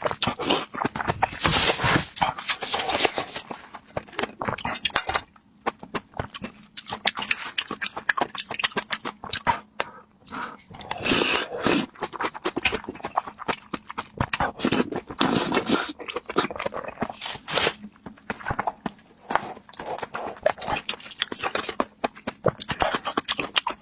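Eating sounds: chewing, slurping and mouth clicks in irregular bursts.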